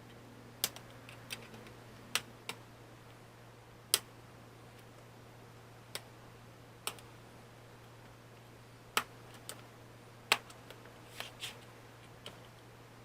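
Scattered sharp clicks and taps of small tools and the Chromebook's plastic case as the laptop is taken apart, coming at irregular intervals over a steady low hum.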